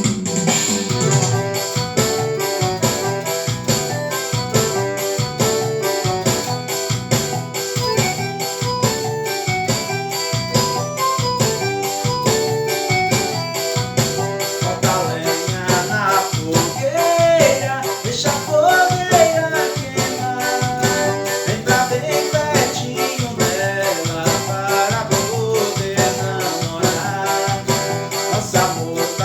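Casio MZ-X500 arranger keyboard playing an instrumental forró: an organ-like lead melody over the keyboard's steady drum and bass accompaniment.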